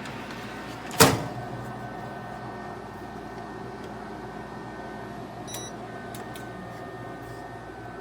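Midea Flexify French door air fryer toaster oven running with a steady hum. A single sharp click comes about a second in.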